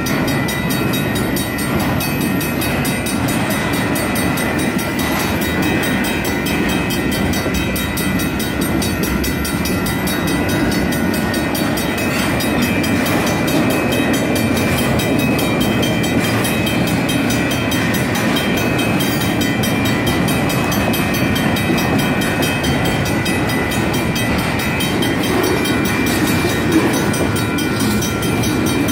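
Intermodal freight cars rolling through a railroad grade crossing, a steady rumble of wheels on rail, with the crossing's mechanical and electronic warning bells ringing without a break.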